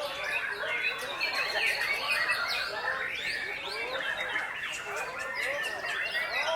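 Caged white-rumped shamas (murai batu) singing together in a contest, a dense chorus of overlapping whistles, trills and rapid calls.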